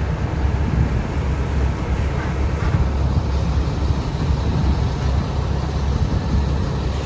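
Heavy diesel engine running steadily at idle, a low rumble.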